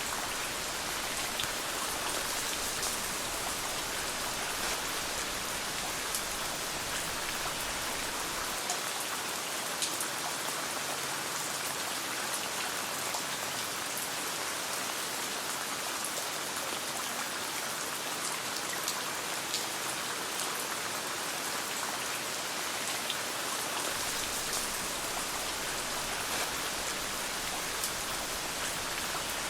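Steady rain falling, an even hiss sprinkled with faint sharp ticks of drops.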